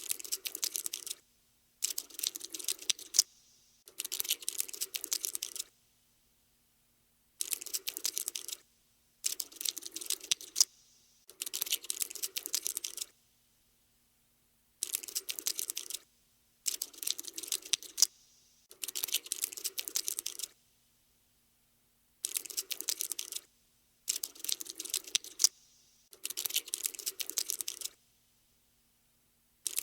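Cockroach scuttling sound effect: rapid dry clicking and skittering of insect legs, coming in stop-and-go bursts of one to two seconds with short silences between, about a dozen times.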